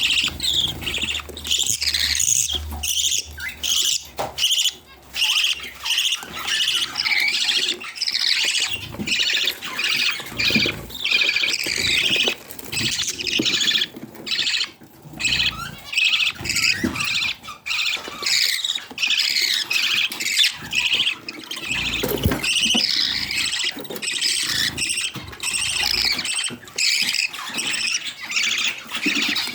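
Budgerigars chattering and warbling: a continuous stream of rapid chirps, whistles and squawks.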